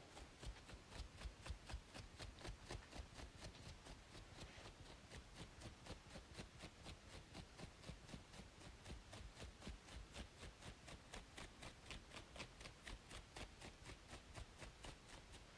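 Quick, even scratching strokes on a braided scalp, about three to four a second, soft and dry over a steady background hiss.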